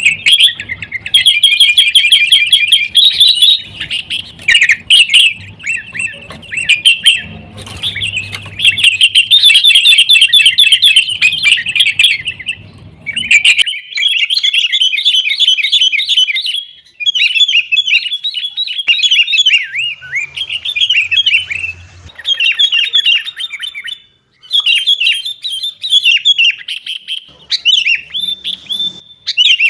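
Sooty-headed bulbuls (kutilang) calling noisily, with quick runs of chirping notes following one another almost without a break. A low hum lies under the first half and stops about 13 seconds in.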